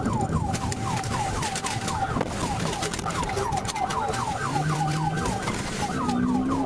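Police car siren on a rapid yelp, a falling tone repeated about three to four times a second, over engine and road noise from the moving patrol car.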